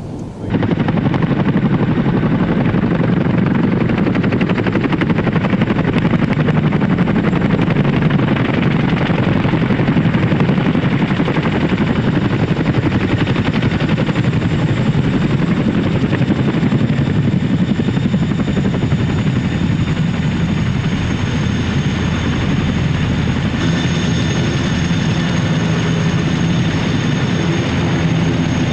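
Boeing CH-47 Chinook tandem-rotor helicopter running close by: a steady, loud mix of rotor noise and the high whine of its twin turboshaft engines. The whine dips slightly in pitch about twenty seconds in.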